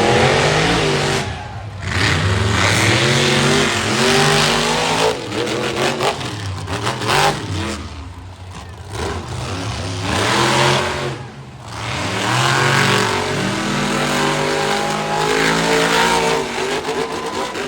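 Monster truck's supercharged V8 engine revving hard, its pitch climbing and falling in repeated bursts with brief drops off the throttle.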